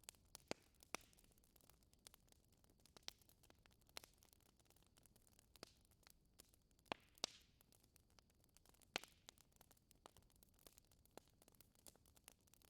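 Wood fire crackling in a fireplace: irregular small clicks with a handful of louder pops, a couple of them trailing a short hiss.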